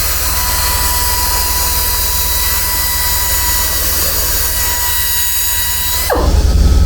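Steady machine noise from body-shop equipment, a hiss with constant high tones over a low hum. About six seconds in the sound changes abruptly: a quick downward sweep, then a louder low rumble.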